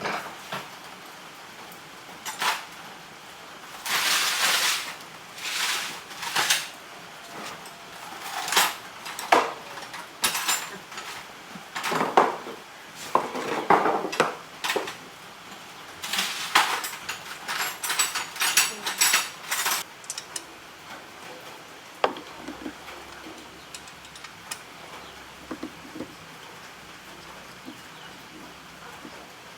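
Metal hand tools clinking and rattling as they are picked up and worked on a motorbike engine, in irregular clusters, thinning to a few light knocks after about twenty seconds.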